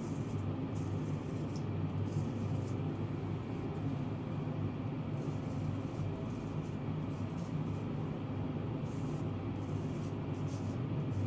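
Straight razor scraping through lathered stubble in short, scattered strokes, over a steady low hum.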